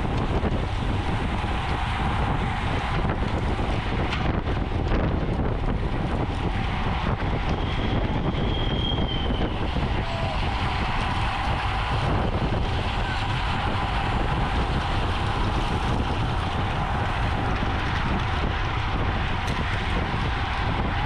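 Steady wind noise rushing over the microphone of a camera moving at riding speed in a bicycle race, heaviest in the bass, with a faint constant hum underneath.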